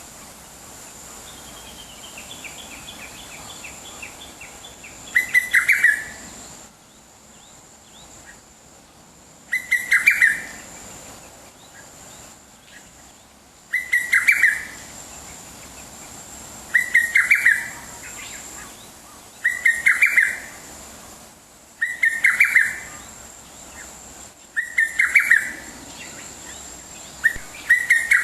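A wild songbird repeating a short, loud song phrase eight times, roughly every three to four seconds. A softer descending run of quick notes comes before the first phrase.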